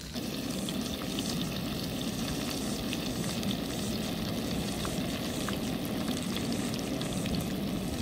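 Panko-crumbed fish pieces shallow-frying in hot oil in a pan: a steady, crackling sizzle.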